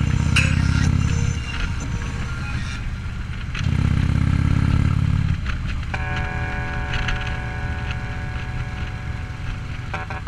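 A vehicle engine rumbling deeply in two loud swells, like two revs, the second about four seconds in. A steady higher tone joins about six seconds in.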